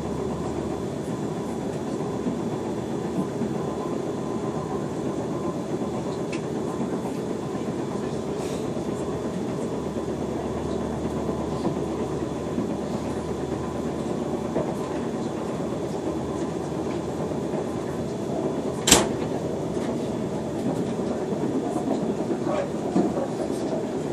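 Steady running noise of a moving passenger train heard from inside the carriage, with one sharp knock about 19 seconds in.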